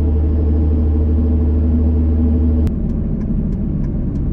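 2005 Dodge Ram 2500's 5.9 L Cummins turbo diesel idling with its exhaust snapped off, a deep steady hum. Nearly three seconds in, a sharp click breaks it and it turns into a rougher rumble with light ticking.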